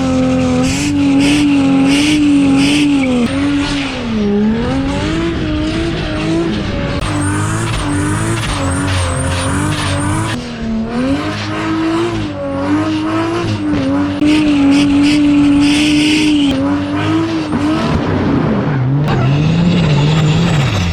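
Straight-piped turbocharged Ford Barra inline-six in an XD Falcon held high in the revs through a burnout, with the tyres squealing. The revs waver and dip briefly a couple of times, then fall away near the end.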